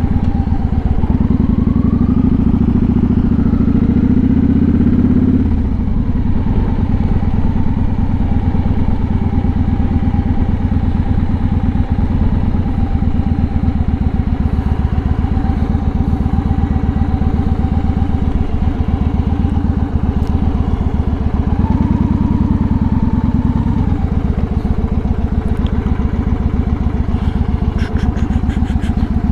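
Motorcycle engine running as the bike is ridden, with rapid even firing pulses. It pulls harder with a rising pitch for a few seconds near the start, then drops back suddenly, and opens up briefly again about 22 seconds in.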